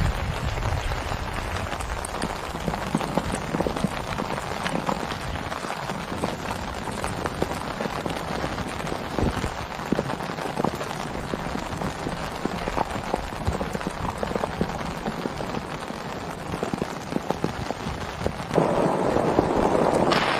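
Heavy rain falling steadily, with many separate drops striking close by. A louder, denser noise sets in suddenly near the end.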